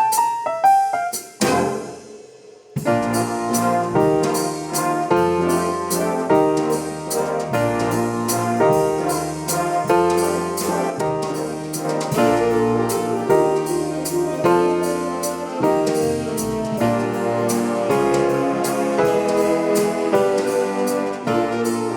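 High school swing band playing jazz, with piano, brass, saxophones and drum kit. A phrase dies away about two seconds in, and after a short lull the full band comes back in over a steady cymbal beat.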